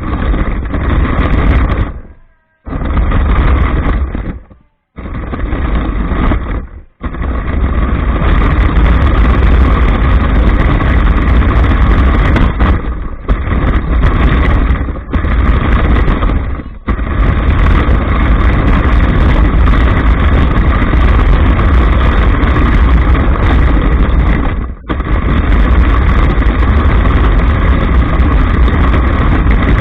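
Running noise of an RC monster truck, heard through an action camera mounted on the truck itself: loud and dense. It stops dead and restarts three times in the first seven seconds, then runs almost without a break, with brief dips.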